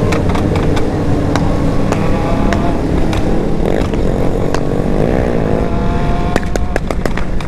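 Several motorcycle engines running loud together, their pitches rising and falling as they rev. Sharp crackling pops come throughout and are heaviest in the last two seconds.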